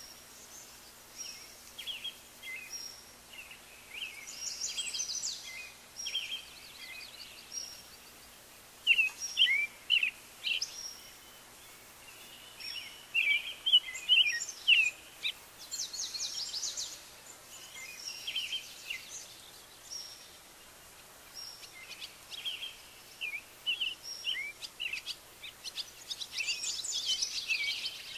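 Small birds chirping and singing: many short high calls and quick rising and falling notes. The loudest bursts come about nine to ten seconds in and again around thirteen to fifteen seconds in.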